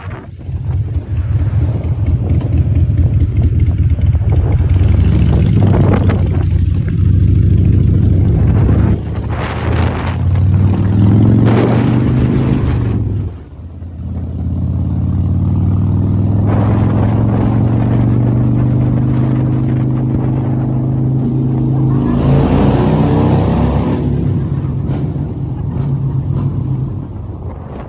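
Harley-Davidson Breakout's V-twin engine running under way, heard from the passenger seat. The engine note climbs under throttle, drops off sharply about 13 seconds in as the throttle is closed, then picks up and pulls steadily again.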